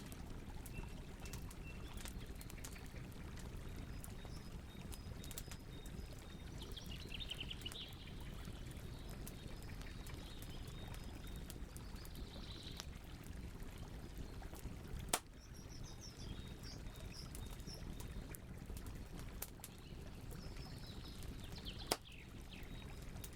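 Campfire burning with a low rush and frequent small crackles, and two louder pops about fifteen and twenty-two seconds in. Birds chirp now and then in the background over a faint steady high insect tone.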